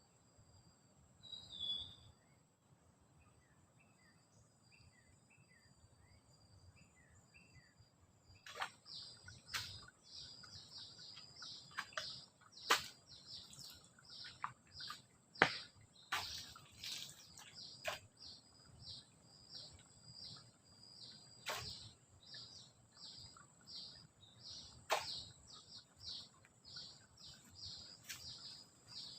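Rapid, high-pitched chirping of forest wildlife, several chirps a second, starting about a third of the way in. Under it runs a faint, steady, high insect drone, with sharp ticks now and then.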